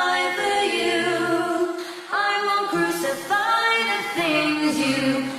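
A cappella vocal music: several voices singing sustained notes in harmony, changing chords every second or so.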